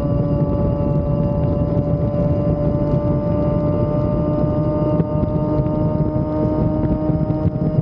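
Sport motorcycle engine running at a steady speed while riding: an even, held drone with a rushing noise beneath it.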